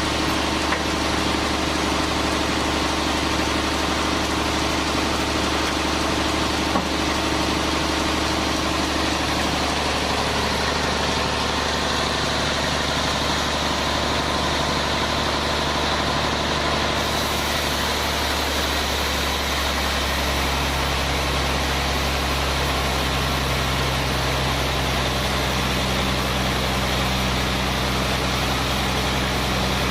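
Sawmill machinery running steadily, with a constant engine-like hum. Its tone drops in pitch about a third of the way in and changes again a little past the middle.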